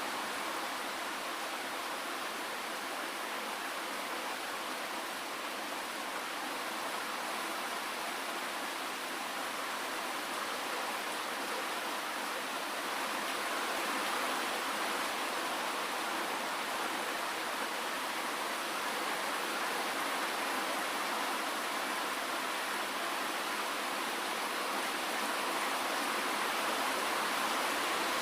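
Steady rain falling, an even hiss that grows a little louder in the second half.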